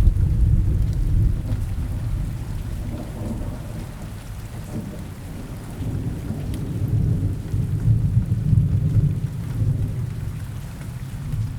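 Steady rain falling, with low rolling thunder that rumbles up sharply at the start, eases off, then swells again for several seconds past the middle.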